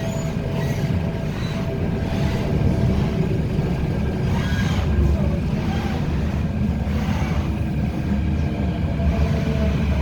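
A Hyundai Rotem-built MTR K-train electric multiple unit heard from inside the car, running steadily at speed. There is a continuous low rumble of wheels on rail and a faint steady hum.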